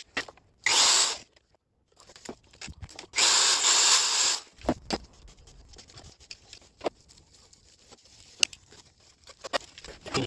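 Two short bursts from a power tool working metal, the second one longer, with scattered knocks and clinks of tools between and after.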